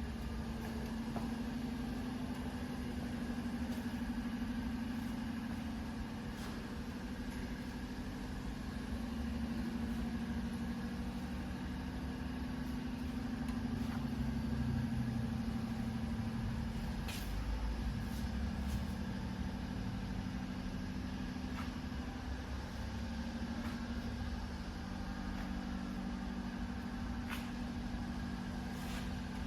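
Yamaha YZF-R1's inline-four engine idling steadily, with a few faint ticks over the running.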